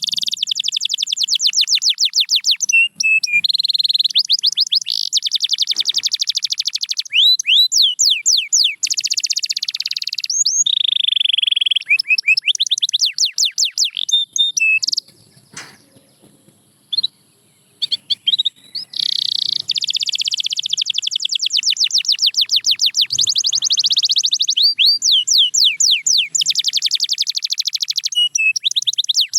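Domestic canary singing: long runs of rapid, high-pitched repeated notes and trills mixed with held rolling notes, broken by a pause of a few seconds about halfway through.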